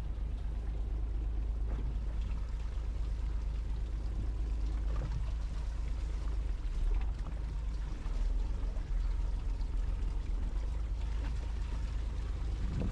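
Heavy rain falling steadily on a fishing boat, a continuous hiss with a low rumble underneath.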